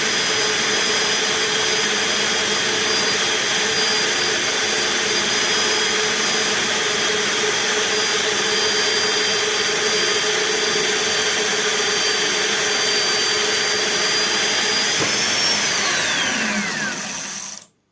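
Electric power tool motor running at high speed with a steady whine, spinning a part for friction welding. About fifteen seconds in, the pitch rises briefly, then falls steeply as the motor spins down, and the sound cuts off abruptly just before the end.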